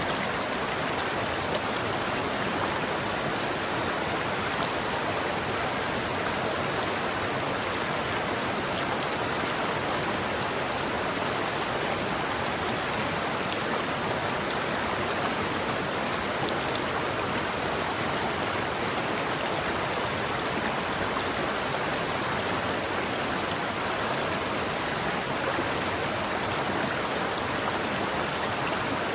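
River water flowing steadily over rocks, a continuous rushing with a dense burble and no other sounds.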